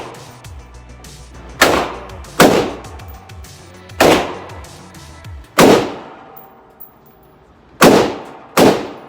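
Gunshots from handguns or rifles at a shooting range: six loud shots at uneven intervals, some in pairs about a second apart, each with a short echoing tail.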